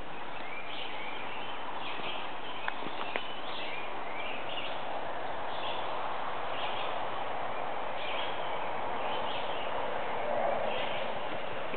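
Steady outdoor background noise with short bird chirps repeating about once a second, and a couple of faint clicks about three seconds in.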